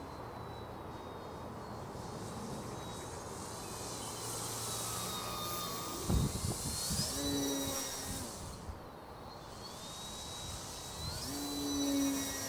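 Durafly Ugly Stick V2's electric brushless motor and propeller whining as the RC plane flies, the pitch rising sharply as the throttle opens, once about halfway through and again near the end. A brief low thump just before the first rise.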